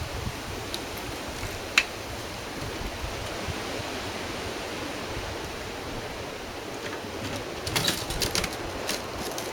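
Steady wind noise on the microphone, with one sharp click a couple of seconds in and a short run of small clicks and knocks near the end.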